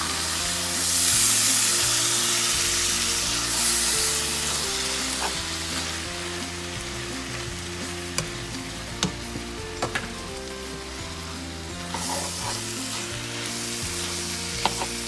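Salt cod, onions and peppers sizzling in a little oil in a nonstick frying pan while a spoon stirs them, with a few sharp clicks of the spoon against the pan. The sizzle swells loudest about a second in, again near four seconds and around twelve seconds as the food is turned over.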